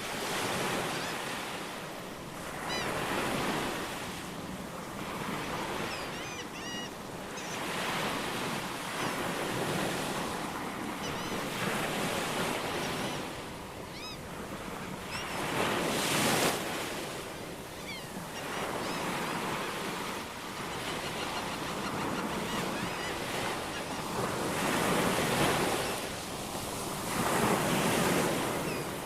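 Ocean waves surging and washing in, swelling and ebbing every few seconds, with a few short high bird chirps over them.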